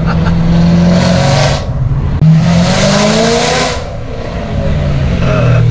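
BMW E92 M3's V8 through an Armytrix valved exhaust with the valves open, under way: a steady drone, a brief dip about two seconds in, then a hard pull with the pitch rising for about a second and a half before the throttle lifts and it settles back to a lower drone.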